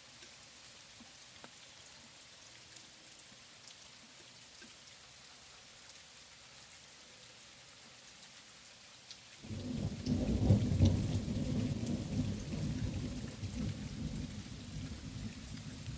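Steady rain falling, then about nine and a half seconds in a sudden loud thunderclap that rolls on as a long, slowly easing rumble.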